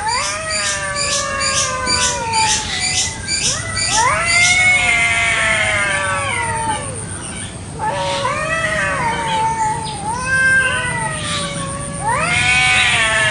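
Cats caterwauling at each other in a territorial standoff: about four long, wavering yowls that bend up and down in pitch. A high chirping repeats about three times a second during the first four seconds.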